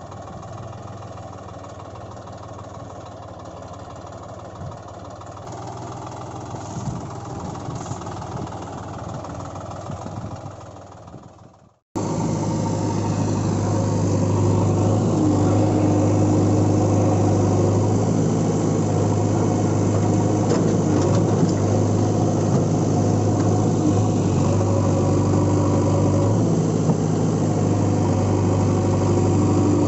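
An engine running steadily, quieter at first and fading out about twelve seconds in, then cutting straight to a louder engine sound with a steady low hum that runs on without change.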